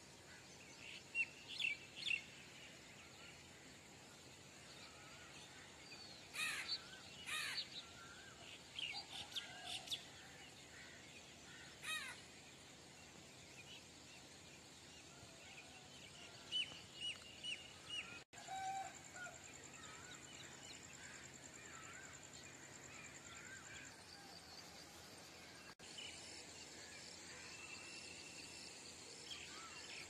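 Small birds chirping and calling in short bursts, a few calls at a time with pauses between, over faint steady outdoor background noise.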